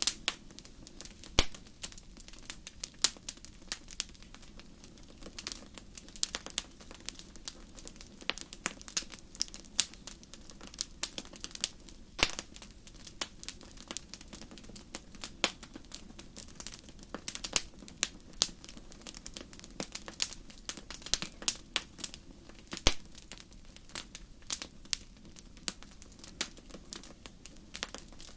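Wood fire burning in a fireplace: a steady low hiss with dense, irregular crackles and occasional sharper pops.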